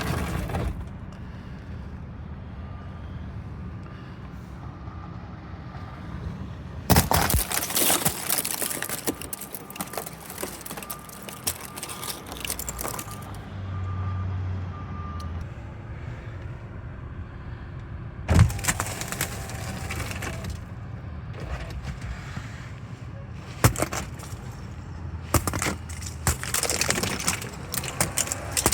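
Steady low rumble of road traffic, broken several times by spells of loud crackling with sharp cracks, the loudest near the start of each spell.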